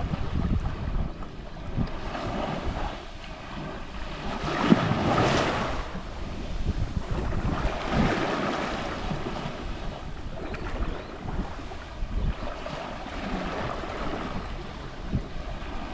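Small Mediterranean sea waves lapping and washing on the shore, in uneven swells, the largest wash coming about four to six seconds in.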